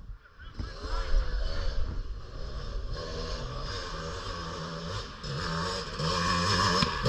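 Dirt bike engine climbing a hill under load, its pitch rising and falling with throttle changes and growing louder toward the end.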